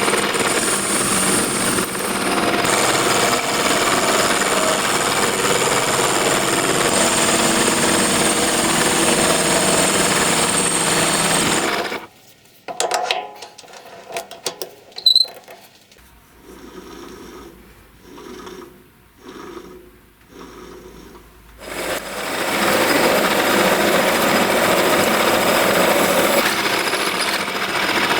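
A power tool runs steadily and loudly, then stops about twelve seconds in. For roughly ten seconds there are only quieter clicks and knocks of handling, then the tool runs again near the end.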